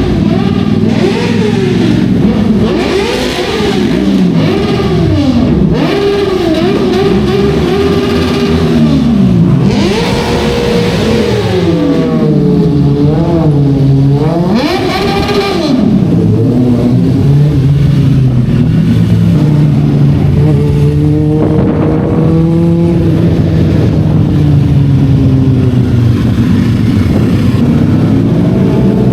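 Motorcycle engines with no dB-killer silencers in their exhausts, loud, revving up and dropping back over and over as they accelerate and shift. In the second half one engine holds a steady note while another revs above it.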